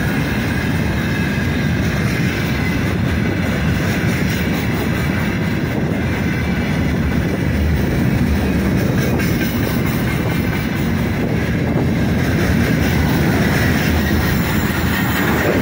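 Freight train's gondola wagons rolling past close by: a steady, loud rumble of steel wheels on the rails.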